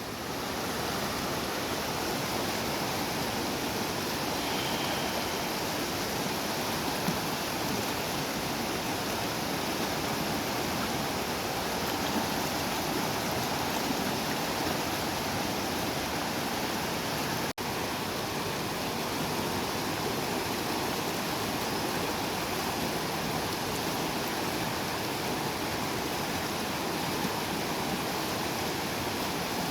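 Water of a small river flowing steadily. There is a brief dropout a little over halfway through.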